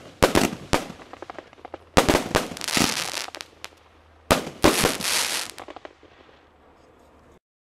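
Consumer fireworks going off: sharp bangs in three clusters, each followed by crackling, the last cluster fading out.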